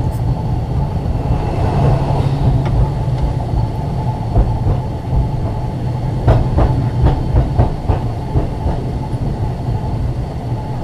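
Ex-Liverpool Corporation tram 869 running along the track, heard on board: a steady low rumble from its wheels and running gear, with a quick run of sharp clicks about six to eight seconds in as the wheels pass over rail joints.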